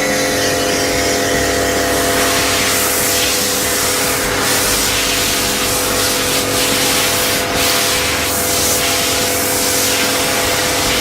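Kärcher K7 pressure washer running and spraying: a steady hiss of the water jet over a constant motor whine, starting abruptly.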